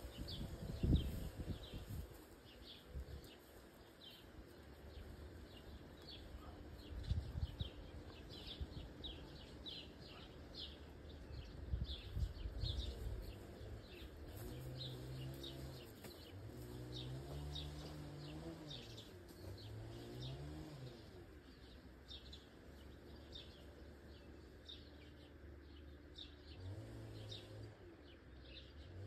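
Small birds chirping busily throughout, short high calls repeating several times a second. In the first half there are a few low thuds, and in the middle a low wavering tone rises and falls.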